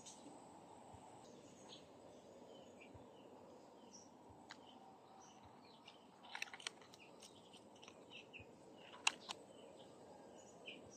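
Quiet garden ambience with faint, scattered bird chirps. A few sharp clicks come about six and a half seconds in, and a single louder click about nine seconds in.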